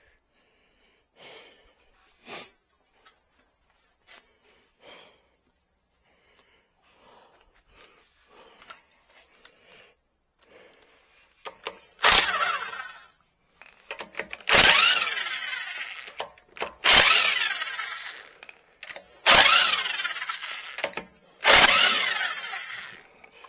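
A power tool run in five short bursts, each starting suddenly and lasting a second or two, after several seconds of faint knocks and handling noises.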